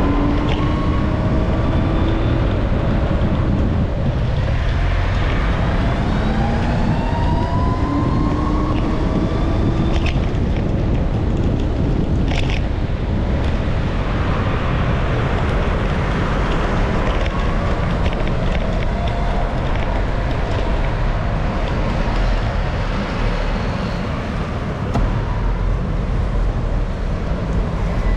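Wind rushing over the microphone with road traffic, the whine of motor engines rising in pitch several times in the first ten seconds as vehicles accelerate.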